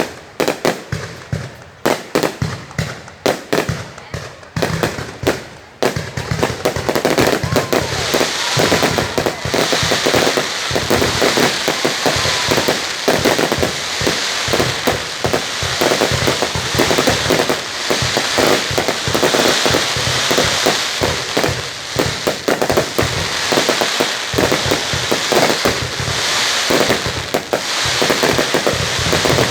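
Fireworks going off: separate sharp bangs for the first several seconds, then a dense, continuous crackle of many rapid explosions.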